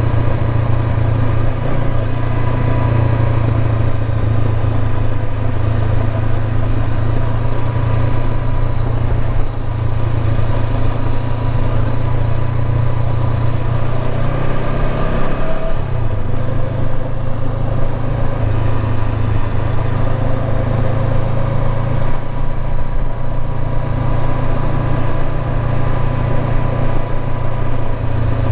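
Motorcycle engine running steadily while riding, with a brief change in engine note about halfway through.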